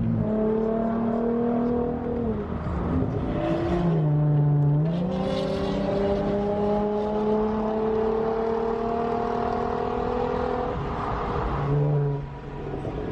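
Car engine accelerating through the gears: its pitch climbs steadily and drops sharply at each upshift, with shifts about two seconds in, around four seconds in and near the end.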